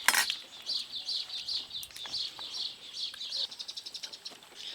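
A small bird chirping over and over in short high notes, breaking into a quick trill of rapid notes near the end. A sharp clatter sounds right at the start.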